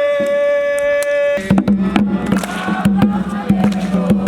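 A group of campers chanting and singing with drum beats. It opens with one long, high held cry, rising at its onset and lasting about a second and a half, before the drumming and group voices come in.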